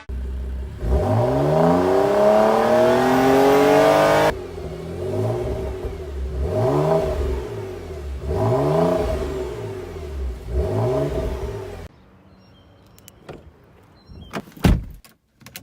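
Porsche Macan S V6 engine revving: one long, steady climb in pitch, then four short revs that rise and fall about every two seconds. The engine stops near the end, followed by a few faint clicks and one sharp thump.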